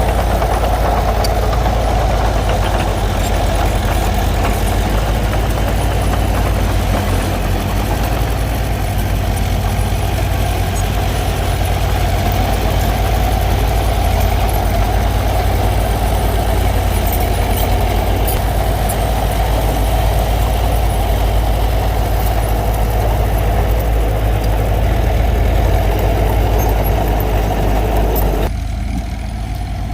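Diesel engine of a small crawler bulldozer running steadily with a deep rumble; the sound drops and changes abruptly near the end.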